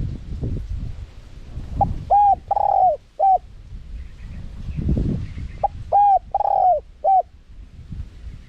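Spotted dove cooing: two phrases of four coos, about four seconds apart, the third coo in each phrase the longest, over a low rumble.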